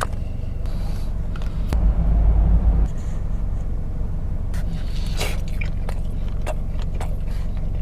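A person chewing and biting sushi, with scattered small clicks and wet squishy mouth sounds, over the steady low hum of a car cabin.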